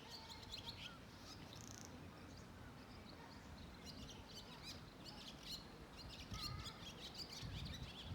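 Barn swallow singing: a faint run of quick, high chirps and twitters, over a low background rumble that grows louder near the end.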